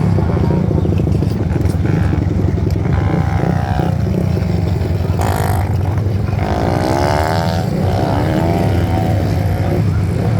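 500cc single-cylinder speedway motorcycles racing, their engines running hard under a steady heavy rumble, with engine notes rising and falling as bikes pass, twice and most strongly past the middle.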